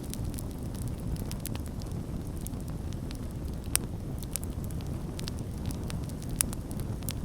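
Campfire burning: a steady low rush of flames with scattered sharp crackles and pops, two louder pops about three and a half and six and a half seconds in.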